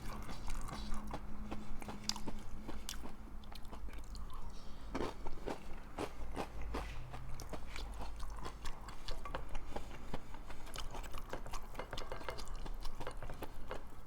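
A person chewing a mouthful of stew topped with Fritos corn chips close to the microphone, with a steady run of crunching and small wet clicks.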